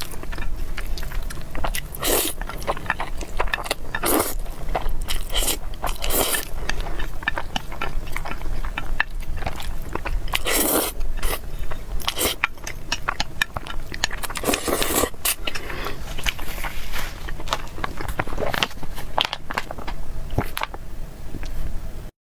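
Close-miked eating: chewing and biting food, with scraping sounds in irregular bursts. The sound cuts out briefly near the end.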